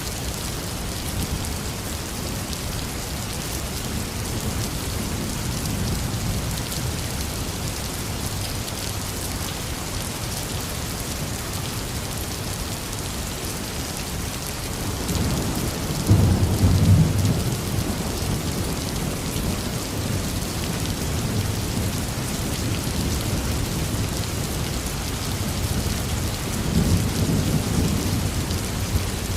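Heavy, steady rain pouring down, with rolling thunder: a low rumble builds about halfway through and peaks as the loudest sound, and another rumble comes near the end.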